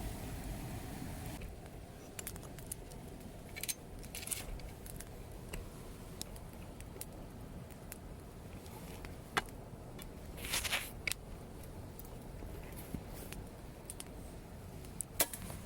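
Wood campfire crackling, with scattered sharp pops and a short cluster of snaps about ten seconds in.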